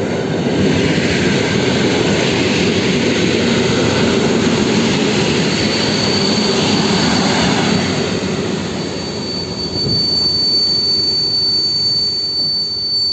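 A train passing close by: a loud steady rumble. A thin, high, steady whine joins about halfway through.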